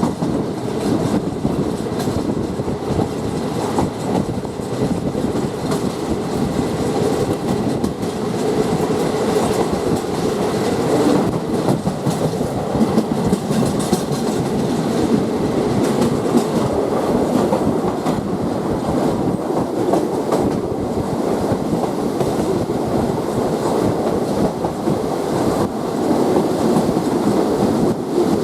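State Railway of Thailand passenger train running, heard from aboard: a steady rumble with the wheels clicking over rail joints.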